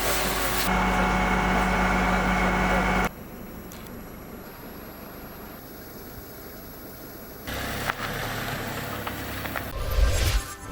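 Several short outdoor sound clips cut together. The first is a steady engine hum from an idling vehicle, which breaks off abruptly about three seconds in and gives way to quieter background noise. Louder noise and low rumbles come in near the end.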